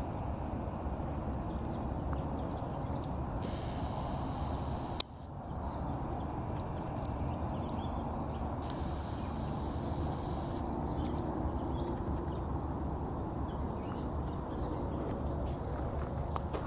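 Outdoor bush ambience: a steady low rumble of wind on the microphone, with faint bird chirps and a high insect hiss. A single sharp click about five seconds in.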